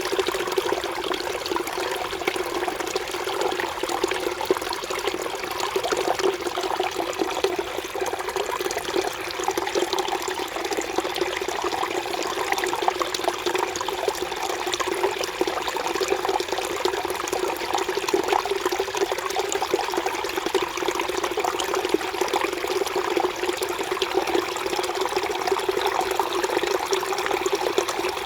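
Mountain valley stream flowing: a steady rush of water with constant fine splashing.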